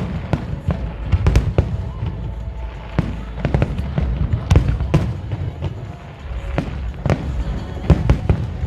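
Fireworks display: shells bursting in quick, irregular succession, many sharp bangs over a continuous deep rumble.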